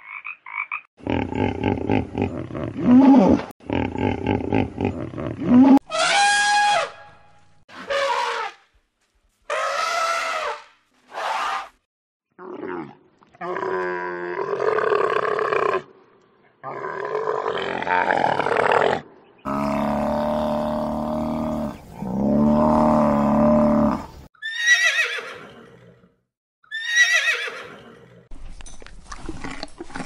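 A string of different animal calls, one after another with short gaps: brief frog croaks at the start, then a run of other calls, some pulsed, some falling high cries, some low calls with deep overtones.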